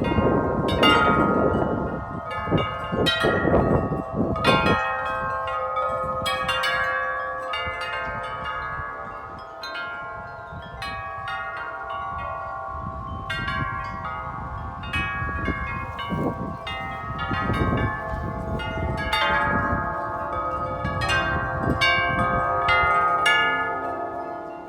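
Several sets of metal tube wind chimes ringing busily in strong, gusty wind: many overlapping struck notes keep ringing on into one another. Gusts rumble on the microphone underneath, heaviest in the first few seconds and again about two-thirds of the way through.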